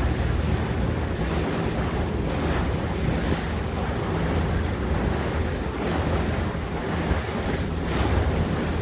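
Motorboat running steadily under way, a low engine hum under the wash of water along the hull, with wind buffeting the microphone.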